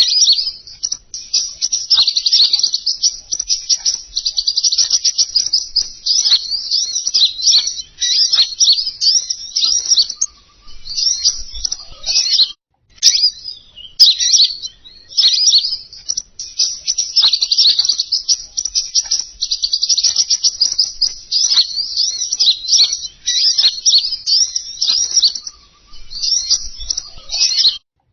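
Bird-lure recording of a small songbird called king konin, a rapid, high, continuous twittering song. It plays as a loop that repeats about every 13 seconds, with a brief break about halfway through.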